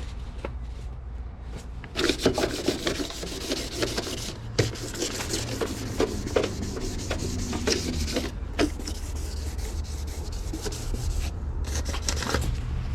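Wet sandpaper rubbed back and forth by hand over the painted metal of a car's engine bay, scuffing the old paint so new paint will stick; the scrubbing gets louder about two seconds in.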